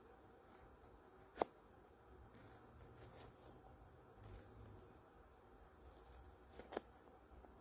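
Near silence with scattered faint ticks and two sharper clicks, one about a second and a half in and one near the end.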